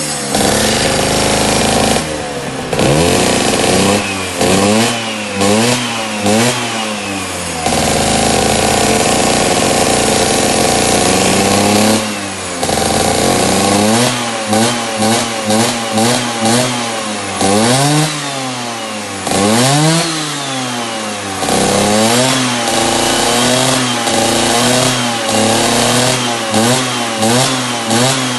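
A small engine being revved over and over during a tune-up: quick throttle blips that rise and fall in pitch, a few seconds held at high speed about a third of the way through, then more blips between spells of steadier running.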